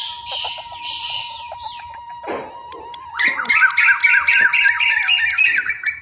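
Birds squawking: a few harsh squawks in the first second and a half, then a loud, fast run of calls, several a second, from about three seconds in.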